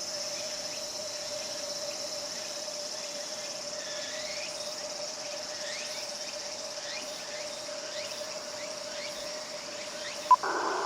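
Insects chirping in a steady evening chorus, with a steady single tone underneath. Near the end a sharp click is followed by a rush of radio receiver noise.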